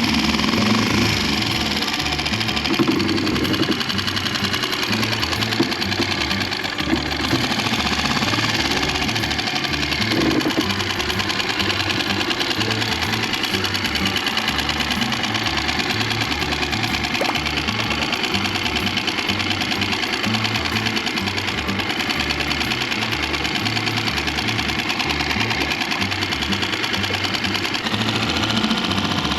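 Tohatsu outboard motor running steadily with a fast mechanical whir, with background music over it.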